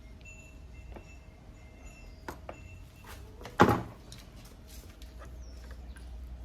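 A few light clicks, then one loud knock with a short ring about three and a half seconds in, as of metal parts or tools being handled and set down on a workbench.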